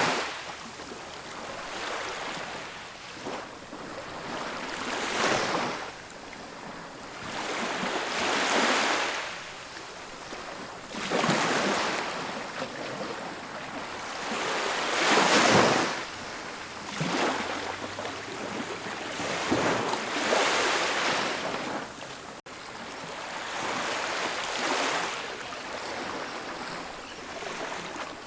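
Ocean waves breaking and washing up on a beach, one swell of surf every three or four seconds, the biggest about halfway through.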